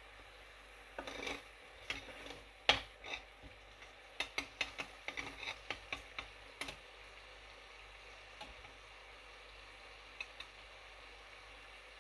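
A cooking utensil knocking and clicking against a pan while spices are stirred. There is one loud knock, then a quick run of taps, about five a second, for a couple of seconds.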